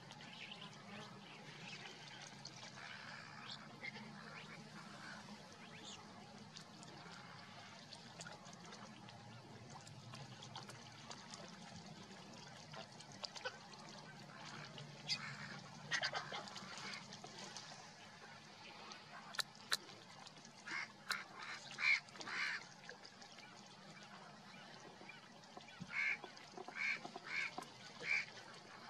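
Birds giving short calls, a cluster of them a little past the middle and a run of four evenly spaced calls near the end, over a steady low hum.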